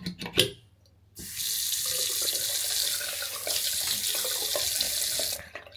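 A couple of sharp clicks, typical of a basin's click (pop-up) waste being pressed, then a new basin mixer tap is turned on and water runs steadily into the basin for about four seconds before it is shut off abruptly.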